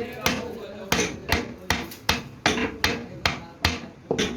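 Steady hammering: about ten sharp blows in quick succession, two to three a second, with some ringing between strikes.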